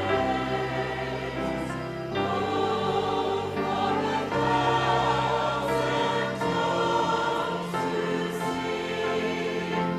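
Congregation or church choir singing a hymn with instrumental accompaniment, held chords changing every second or two over a steady bass line.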